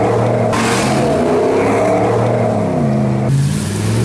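Jeep Wrangler Rubicon JL's 2.2-litre diesel engine working off-road, its pitch rising and falling with the throttle. A rushing noise runs alongside and stops about three seconds in.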